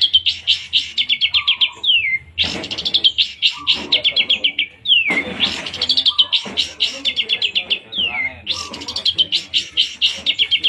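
Long-tailed shrike (cendet) singing loud, rapid bursts of fast repeated high notes. Each run ends in a downward-sliding note, and the bursts recur several times, one every two to three seconds.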